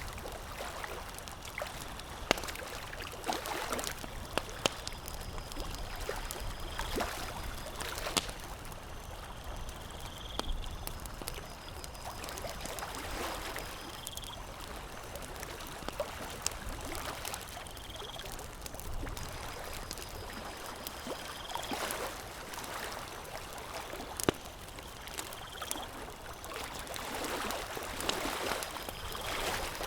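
Campfire crackling, with scattered sharp pops over a steady noise of water. From about ten seconds in, a short high chirp repeats about every four seconds.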